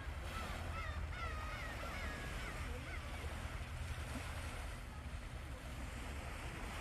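Surf washing on a beach under steady wind rumble on the microphone. In the first half, a bird calls in a quick series of short chirps.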